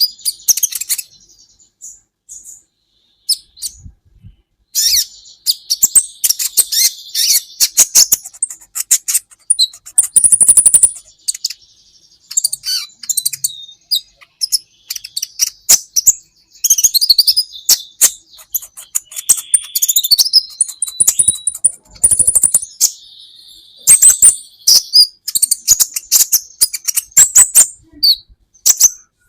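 Kolibri ninja sunbird singing: rapid, high-pitched chirps and twittering trills in bursts, broken by short pauses.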